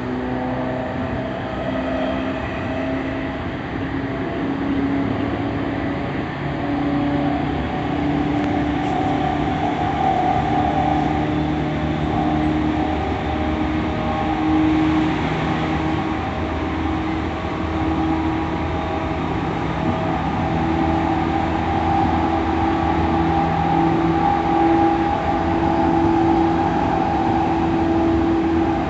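E231-1000 series electric commuter train running, its traction motor whine slowly rising in pitch as the train gathers speed, over steady wheel-on-rail rumble.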